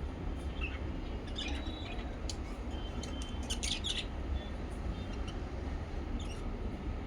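Pet lovebirds and budgies chirping: short, scattered chirps and calls throughout, over a steady low hum.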